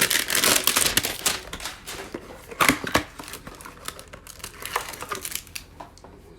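A cardboard hanger box of trading cards being torn open and the cards handled. For about the first second and a half there is a dense crinkling, tearing crackle, then scattered clicks and taps, with two sharper ones near the middle.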